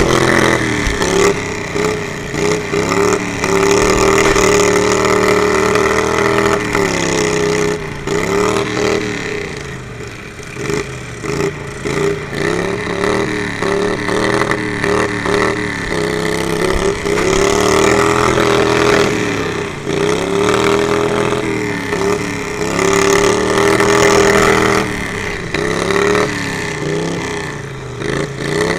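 Riding-lawnmower engines revving up and falling back again and again, the pitch rising and dropping several times.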